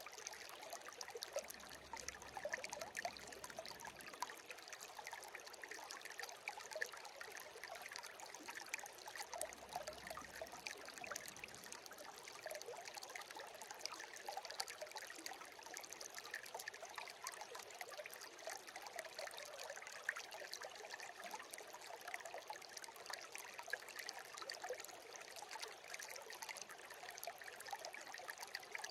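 Shallow brook babbling and trickling steadily over stones, a continuous wash of small splashes and droplet sounds.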